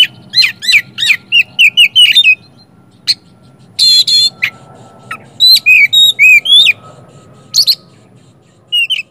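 Oriental magpie-robin (kacer) singing loudly: a quick, varied run of sharp whistles, rising chirps and harsh rasping notes with short gaps, including a string of about six similar rising notes near the start. The song is full of mimicked calls (isian).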